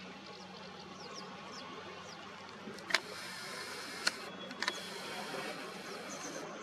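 Outdoor ambience with a steady background hiss and faint, short, high-pitched bird chirps, broken by a few sharp clicks around the middle.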